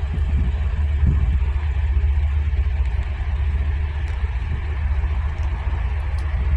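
Steady low engine rumble, holding even throughout.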